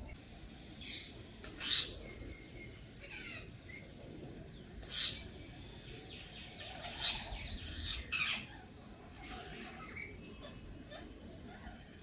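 Short, sharp bird chirps, scattered irregularly, with a few louder calls among fainter ones.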